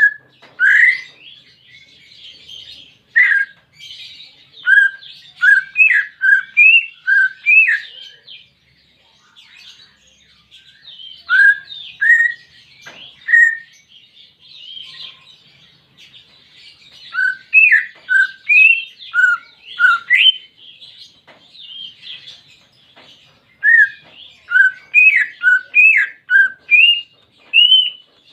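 Cucak ijo (green leafbird) singing loud, clear whistled notes, some sweeping up or down, in runs of several notes with pauses of a few seconds between them. A constant fainter, higher twittering runs behind the song.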